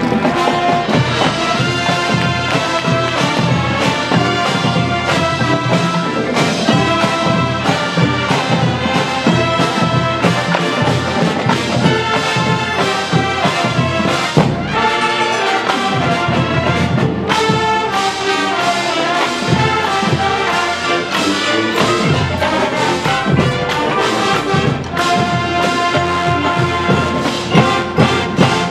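Marching band playing full out, with trumpets and trombones carrying the tune over steady drum hits.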